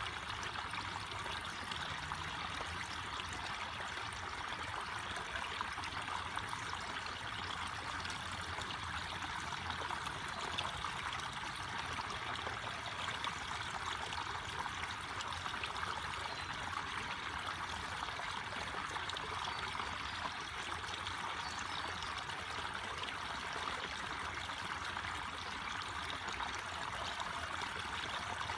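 Forest stream flowing and trickling steadily.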